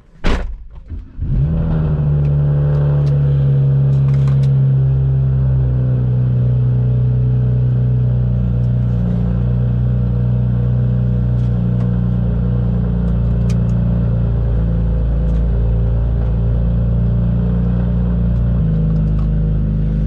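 A car engine running at a steady speed, a low drone that holds one pitch with a small shift near the end. A short loud thud comes right at the start.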